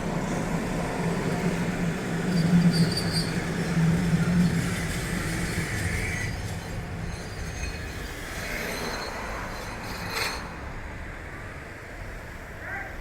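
Randen tram passing on its street-level track, running loudest a few seconds in and then fading, with short high wheel squeals. A single sharp click about ten seconds in.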